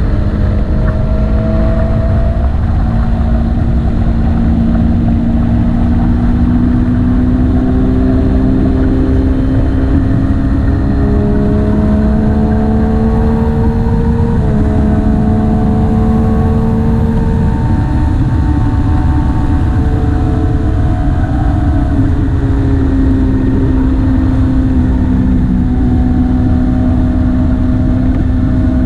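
Motorcycle engine running under way, its pitch slowly rising and falling, with a sudden drop about halfway through, over a steady low rushing noise.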